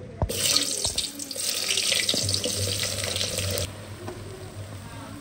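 Food sizzling loudly in hot oil, with a couple of knocks near the start; the loud sizzle cuts off abruptly about three and a half seconds in, leaving a softer, steady bubbling fry.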